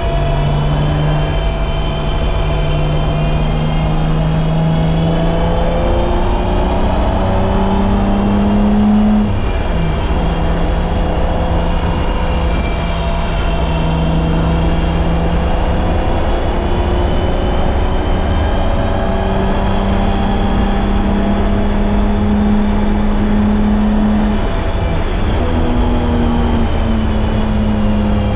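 BMW E30's M20B25 inline-six engine pulling under load, heard from inside the car: its pitch climbs slowly and drops sharply at a gear change about a third of the way in, climbs again, and changes gear once more near the end. Steady road and wind noise runs underneath.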